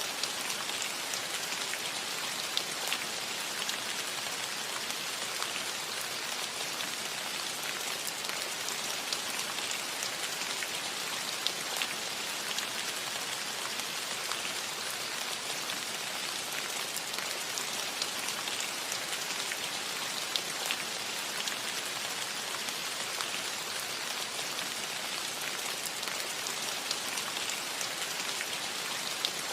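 Steady rain falling on a cottage roof: an even hiss with scattered sharper ticks of single drops.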